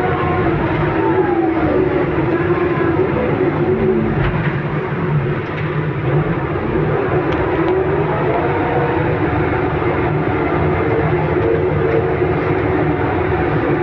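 Vehicle engine running steadily under load on an uphill climb, its pitch drifting up and down, over a constant hiss of road noise.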